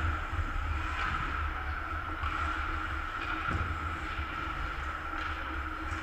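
Ice rink ambience during a hockey game: a steady hum with a low rumble underneath and a few faint knocks.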